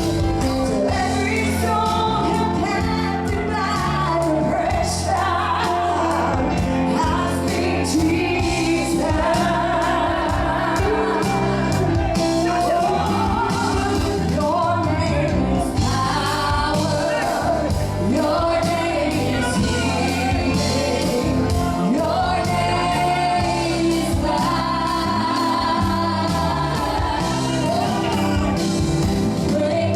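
Live gospel worship music: singers with a band, the voices carrying a melody over steady bass and drums, in a large hall.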